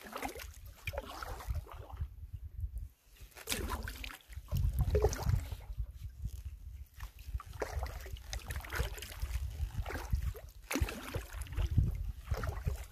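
Canoe being paddled: water sloshing and dripping around the paddle and hull, with uneven gusts of wind rumbling on the microphone.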